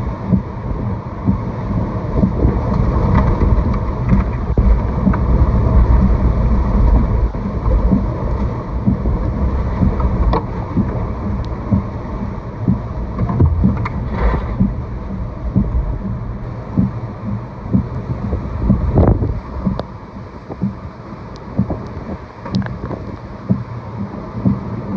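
Hurricane-force wind buffeting the microphone: a heavy, gusting low rumble with rushing noise, loudest in the first several seconds, and a few sharp knocks scattered through.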